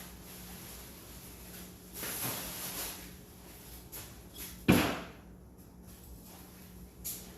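Work-site handling noises: a scraping rustle about two seconds in, then one loud, sharp knock near the middle, with a few lighter clicks and knocks.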